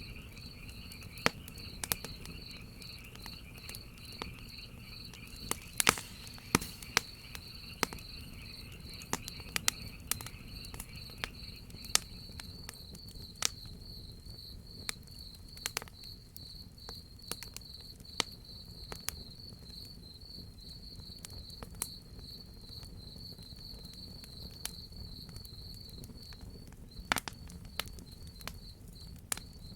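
Crickets chirping in a steady, fast-pulsing high trill, joined by a second, lower insect trill that stops about twelve seconds in. Scattered sharp pops and crackles of a wood fire sound over a low, steady rumble.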